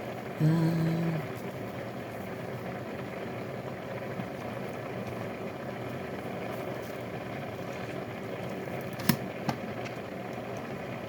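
A steady low hum runs throughout, with a short hummed note about half a second in and two sharp taps close together about nine seconds in.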